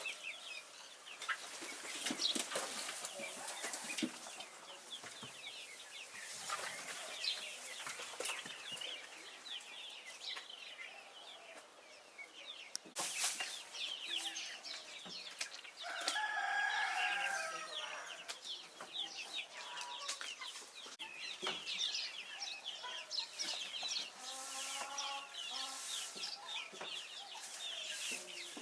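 A flock of young chicks peeping continuously in short, high cheeps, with a louder, drawn-out adult chicken call lasting about two seconds past the middle, and a few brief bursts of rustling or wing flapping.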